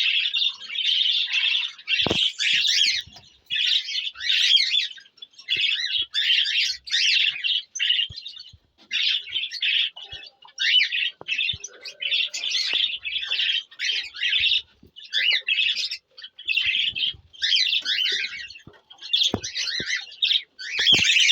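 Many small cage birds in a mixed aviary chirping and chattering in near-continuous clusters of quick, high calls, with a few sharp clicks among them.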